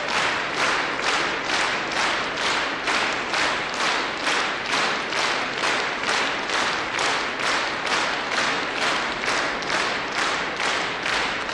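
Concert audience clapping in unison, a steady rhythm of about two and a half beats a second.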